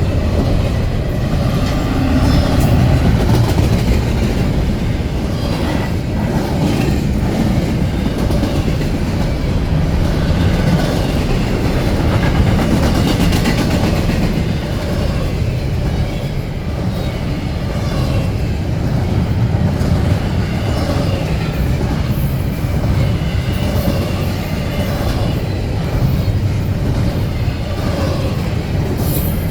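CSX intermodal freight train rolling past at close range: a steady, loud rumble of the cars with the wheels clacking over rail joints.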